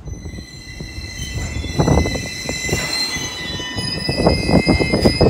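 Enshu Railway 1000 series electric train braking to a stop, with a high-pitched squeal in several steady tones over a low rumble and a few knocks.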